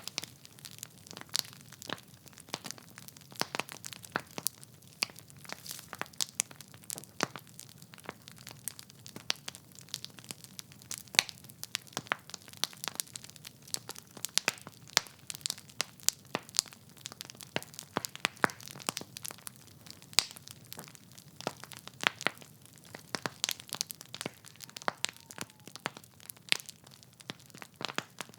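Wood fire burning in a fireplace: logs crackling and popping in irregular sharp snaps over a soft low rumble of flame.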